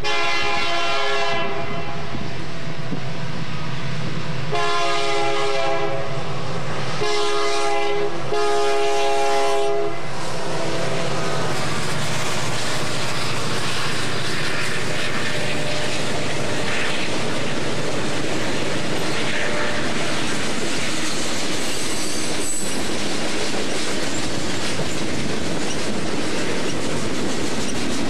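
Diesel freight locomotive's horn sounding the grade-crossing signal: two long blasts, a short one and a final long one. The freight train then rolls past with a steady rumble, its wheels clicking over rail joints, with a brief high wheel squeal about two-thirds of the way through.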